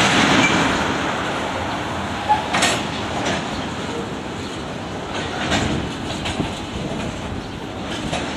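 Freight cars of a long, slow-moving train rolling past, a steady rumble with occasional clicks and knocks of wheels over the rail joints.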